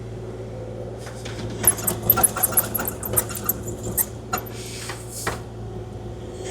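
Kubota KX040-4 mini excavator running steadily, with a quick run of sharp clicks and rattles from about a second and a half in to about four and a half seconds, then a short swish.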